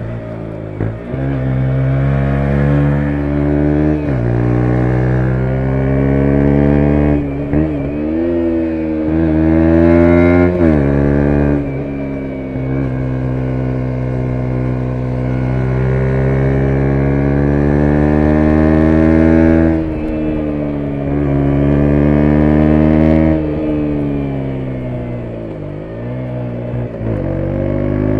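A 2017 KTM 125 Duke's single-cylinder 125 cc four-stroke engine pulling hard through the gears: its pitch climbs and breaks at each upshift several times, holds high at speed, falls away as the bike slows, then climbs again near the end.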